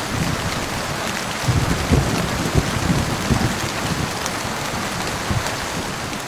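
Heavy rain falling steadily, with low rumbles of thunder underneath.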